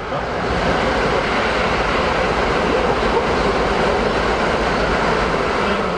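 Steady rushing and rumbling rail noise heard from inside a Keikyu New 1000 series train car. It grows louder at the start and eases near the end.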